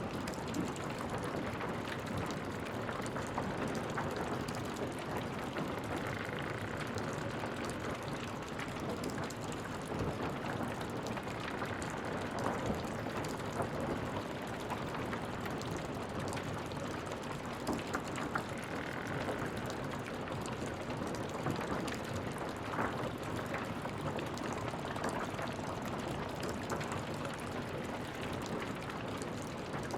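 Wood fire burning in a fireplace: a steady rushing hiss with scattered sharp crackles and pops, and a few short faint whistles now and then.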